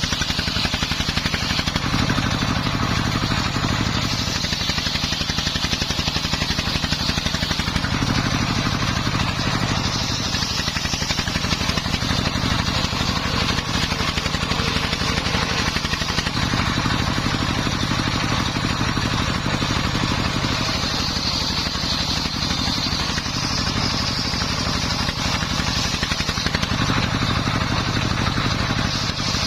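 Dongfeng 24 hp single-cylinder diesel engine running steadily with a rapid low thud, driving a homemade circular saw cutting timber. A higher whine swells and fades every several seconds.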